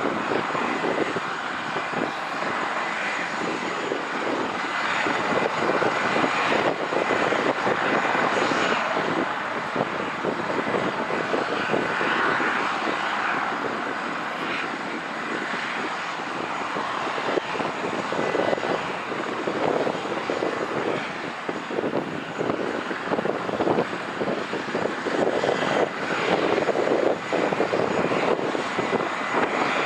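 Airliner engines running: a continuous loud rushing noise that swells and eases over the stretch, with a faint steady high whine on top.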